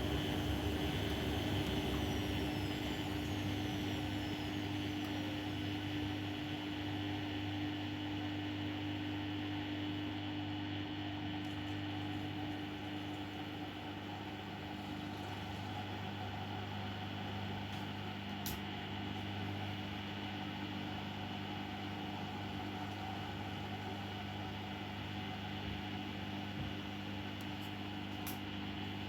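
Bosch Maxx WFL 248Y washing machine running mid-cycle with a steady motor hum, easing slightly in level over the first several seconds. Two brief clicks come in the second half.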